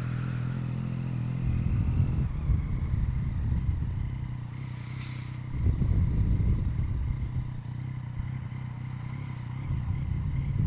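Yamaha MT-09's three-cylinder engine running through an Akrapovic carbon full exhaust while riding, with a steady note that swells with throttle about two and six seconds in.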